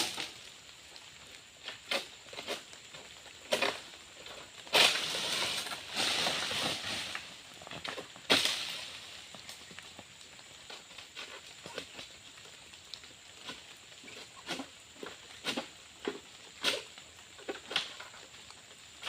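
Oil palm harvesting work: scattered sharp knocks and cutting strokes, with a few seconds of rustling leaves about five seconds in and another sharp hit at about eight seconds.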